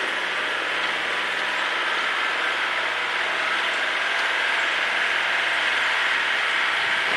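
Tractor engine running at a steady speed, a constant low hum under a dense mechanical hiss.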